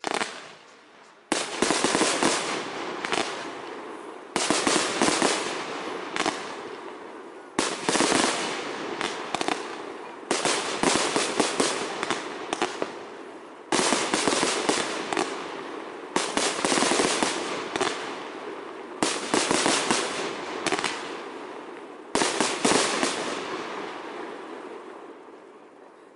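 Fireworks display going off in salvos: a new volley of many quick, sharp bangs about every three seconds, each fading before the next. The last volley dies away over the final few seconds.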